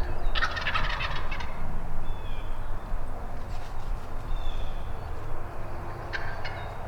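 Wild turkey tom gobbling: one rattling gobble about half a second in, lasting about a second, and a shorter one near the end.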